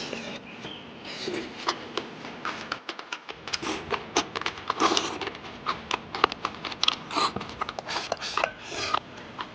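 Close-up eating sounds: irregular crunching and chewing with many short clicks, starting about a second in.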